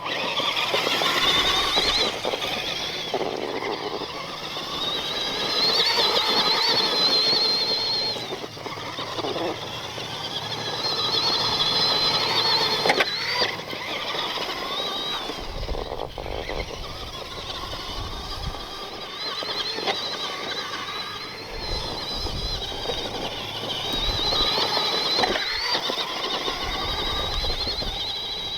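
Electric RC monster truck (Axial SMT10 Grave Digger) driving hard: its electric motor and all-metal gear transmission give a high whine that rises and falls as it accelerates and backs off, several times over, with the rough noise of the tires on the ground.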